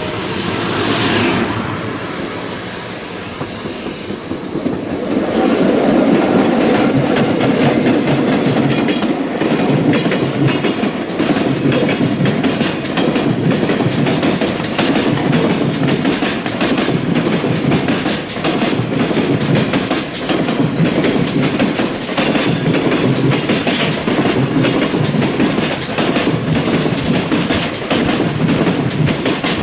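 An E493 series electric locomotive passes and fades away. From about five seconds in, a long container freight train rolls past close by, its wagon wheels clattering over rail joints in a steady, repeating clickety-clack.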